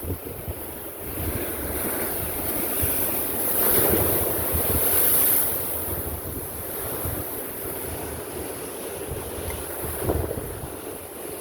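Ocean waves surging and breaking against a rocky cliff. One big wash swells about three to five seconds in and a smaller one comes near the end, with wind buffeting the microphone.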